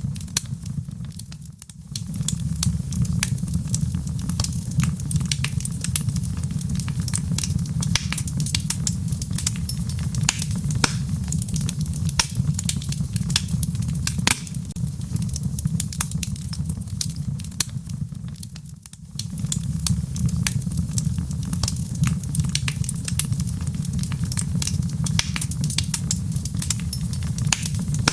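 Wood fire crackling in a fireplace: many small sharp pops and snaps over a steady low rumble of the flames. The sound dips briefly twice, about 17 seconds apart.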